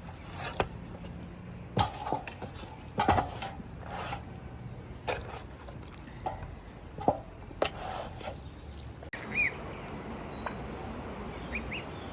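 A series of irregular sharp knocks and clicks, about ten over nine seconds. After that come a few short bird chirps.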